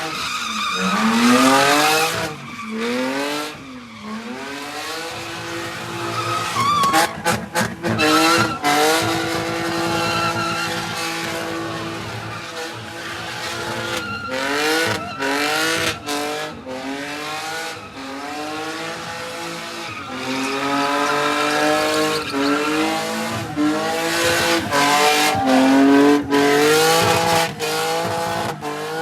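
Car engine revving hard and falling back over and over, with tires screeching and skidding on pavement, typical of a car sliding or spinning in a lot.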